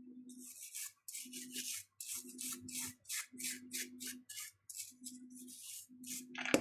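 Quick repeated scrubbing strokes, about two a second, with a low hum coming and going between them, from cleaning small watch parts.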